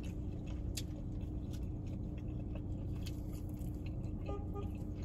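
Chewing and mouth sounds of someone eating crispy fried chicken, with scattered small clicks and crackles as the pieces are torn by hand, over a steady low hum inside a car.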